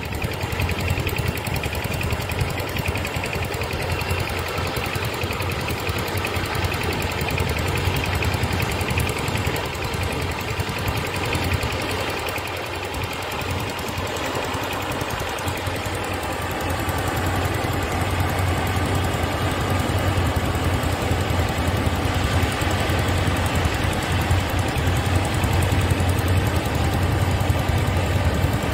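Diesel engine of a Yanmar rice combine harvester running steadily under load. It eases off slightly about twelve seconds in and then builds up again.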